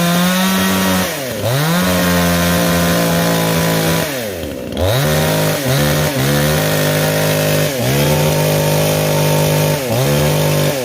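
Ryu chainsaw with a 22-inch bar, its two-stroke engine revved to full throttle and held at a steady high pitch. The throttle is let off and squeezed again several times: a dip about a second in, a longer one around four seconds, a few quick dips just after, and more near eight and ten seconds.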